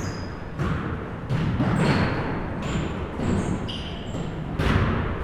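Basketball play in a gym: a ball bouncing on the floor several times, the hardest bounce near the end, with short high sneaker squeaks in between over a busy background din.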